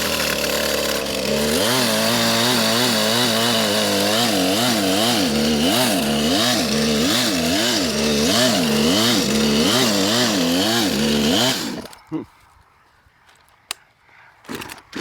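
Gas chainsaw running at high speed, cutting into a tree trunk to make a felling notch; from about a second in, its pitch rises and falls about three times every two seconds as the chain bites. It cuts off suddenly near the end, leaving a few small knocks.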